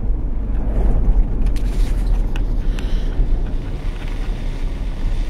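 A car driving, heard from inside the cabin with a window open: steady engine and tyre rumble with wind rushing in at the microphone.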